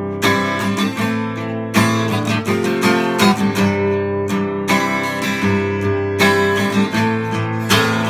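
Acoustic guitar strummed steadily as a song's introduction, with strong accented strums about every second and a half and lighter strokes between.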